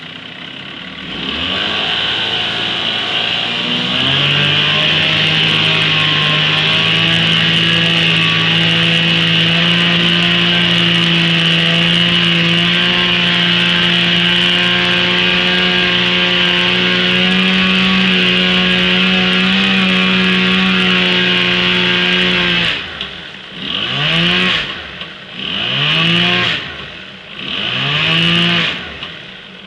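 8 hp Johnson two-stroke outboard motor revved up from idle and held at high speed for about twenty seconds, then throttled back and blipped up three times before dropping back toward idle.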